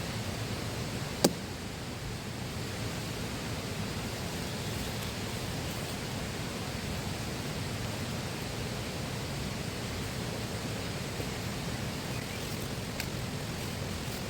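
River water flowing steadily, an even rushing noise. A single sharp click or knock sounds about a second in, and a fainter one near the end.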